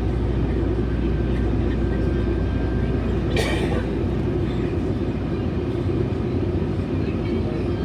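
Metrolink commuter train running along the rails, heard from inside the passenger car: a steady low rumble of wheels and car. About three and a half seconds in there is a brief sharp noise.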